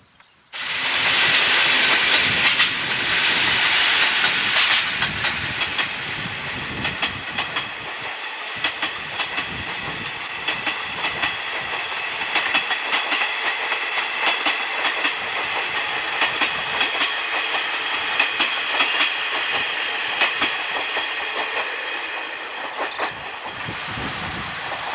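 Japanese National Railways train passing close by on jointed track: a steady rush of running noise with many quick wheel clicks over the rail joints. It starts abruptly about half a second in.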